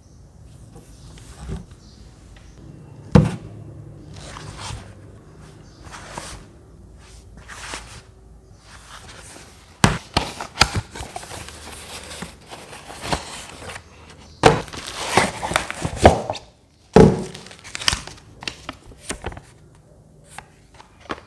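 Unboxing handling noises: packaging crinkling and rustling, broken by irregular knocks and thunks as the product and its parts are handled.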